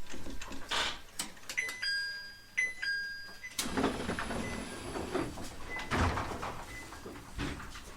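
Passenger doors of a JR East 701 series electric train at a station stop: clunks and clicks, short two-note electronic beeps, then the doors sliding and thudding.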